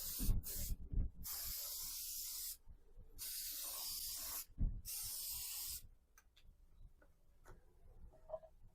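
Wood finish being sprayed on in short bursts: about five sprays, each half a second to a second and a half long, ending about six seconds in. A few faint clicks follow.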